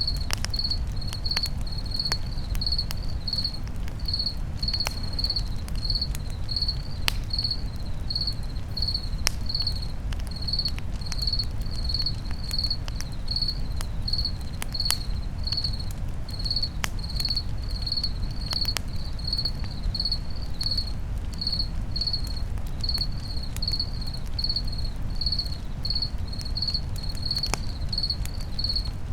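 A cricket chirping in a steady, regular rhythm at one high pitch, over the low rumble and scattered sharp crackles of a campfire.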